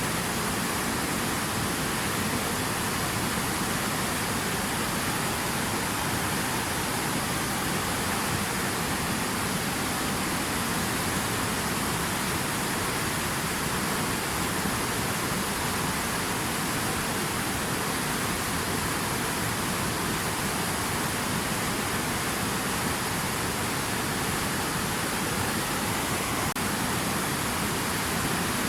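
Steady rushing water: a continuous, even hiss with no splashes, drops or changes.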